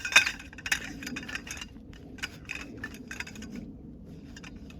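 Metal tent pegs clinking and clattering against each other as they are handled and counted, with a quick run of sharp clinks in the first second and a half and scattered clinks after.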